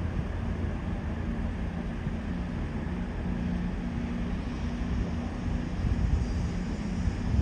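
A train at a station platform with its engine running, giving a steady low drone that swells slightly near the end.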